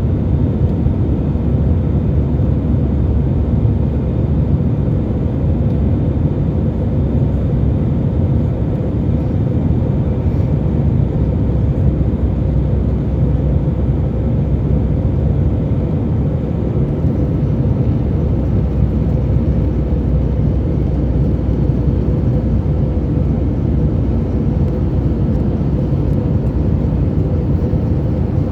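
Airbus A320 jet engines and rushing air making a steady, loud, low rumble, with a faint steady hum running through it.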